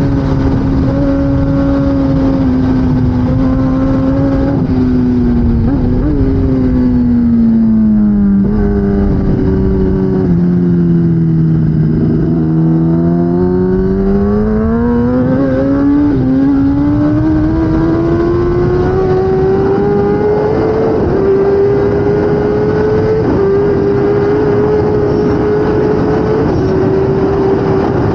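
2016 Kawasaki ZX10R superbike's inline-four engine at racing speed: its note steps down through several downshifts to a low point as the bike slows for a corner, then climbs steadily as it accelerates out, with quick upshifts about two-thirds of the way in and after. Wind rush runs underneath.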